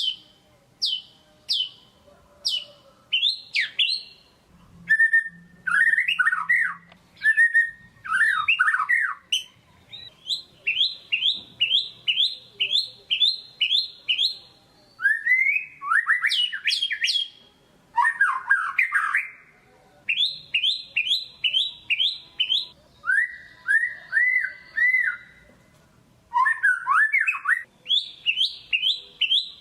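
White-rumped shama (murai batu) singing a loud, varied song: quick runs of sharp downslurred whistles, each note repeated several times, about three a second, before the bird switches to a new phrase. This is a 'gacor' song used as a pancingan recording to set a quiet shama singing.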